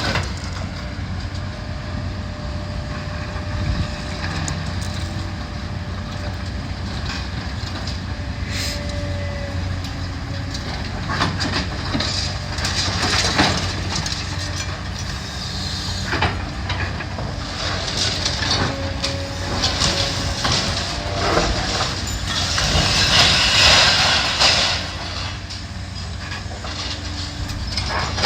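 Demolition excavator's diesel engine running steadily while it tears into a building, with scattered metal clanks and crashes of debris and a louder stretch of crunching, falling rubble about three-quarters of the way through.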